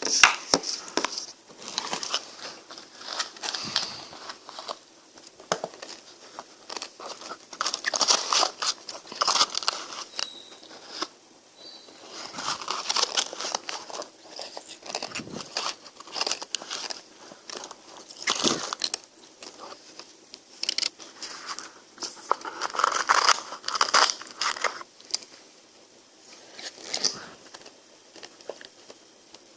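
Close-miked biting and chewing of a frozen ice cream, in irregular crunchy, crackly bites with short pauses between them.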